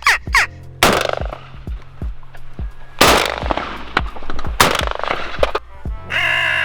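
Three shotgun shots at crows, each with a short echoing tail: about a second in, around three seconds, and a second and a half later. Crow caws come in near the end.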